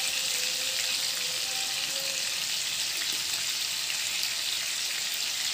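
Marinated boneless chicken pieces sizzling steadily as they shallow-fry in butter and oil in a pan on a low flame.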